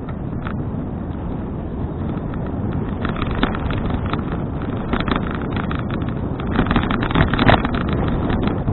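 Wind rushing over an action camera's microphone on a moving bicycle, with quick irregular rattling clicks starting about three seconds in and thickening near the end.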